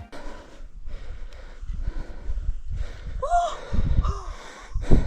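A hiker breathing hard and gasping while climbing a steep sand dune at high elevation, with a short groaning vocal sound about three seconds in. Wind buffets the microphone, loudest just before the end.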